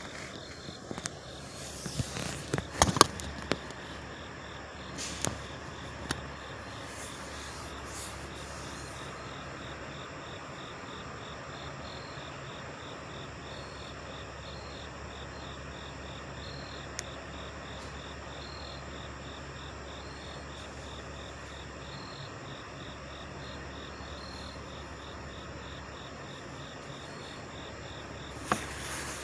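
Steady low hum of several trucks idling, with insects chirping over it in an even, repeating rhythm. A few sharp knocks come in the first three seconds and again near the end.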